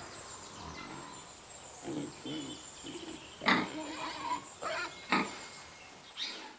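Pig calls: a series of short grunts and louder squeals.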